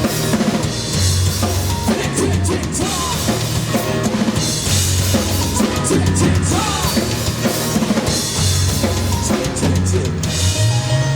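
Live band playing an instrumental passage: drum kit driving with bass drum and cymbals under pulsing held bass guitar notes and higher melodic lines. Near the end the drumming drops away, leaving a held bass note and clear ringing keyboard notes.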